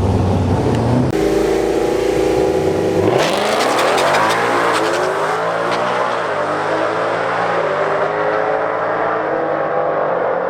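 Drag race car engine held at high revs, then launching about three seconds in, its pitch climbing as it accelerates down the strip.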